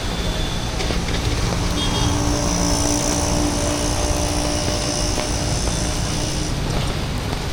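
Street traffic on a wet road, with a passing motor vehicle's engine hum and a high whine standing out for about four seconds in the middle.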